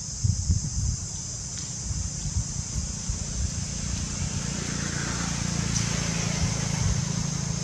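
Outdoor ambience: wind buffeting the microphone in low rumbling gusts, under a steady high-pitched insect drone.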